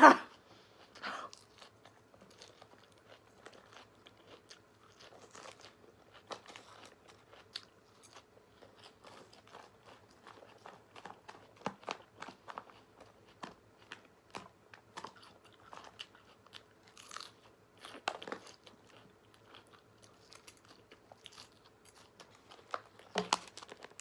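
A person eating close to the microphone: irregular crunching and chewing with small wet mouth clicks, and a sharp click right at the start.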